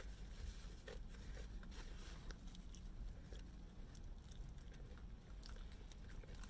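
A person biting and chewing fried chicken off the bone, with small scattered crunches and clicks, over a low steady hum.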